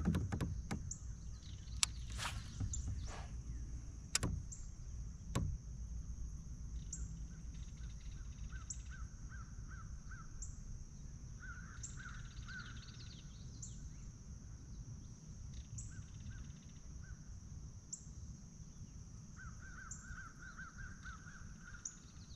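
Birds calling outdoors in short runs of rapid repeated notes, over a steady high-pitched drone. A few sharp clicks sound in the first five seconds.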